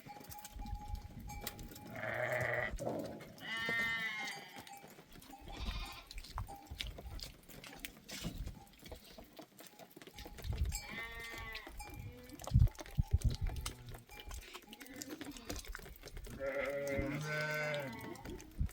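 Sheep and goats bleating, about five separate calls spread through the stretch, over a low rumble. A sharp knock sounds about twelve and a half seconds in.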